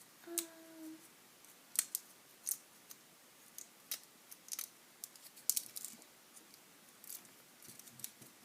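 Irregular sharp clicks and snips of plastic drinking straws being worked, cut and pushed into place on a popsicle stick, with a brief low hum about half a second in.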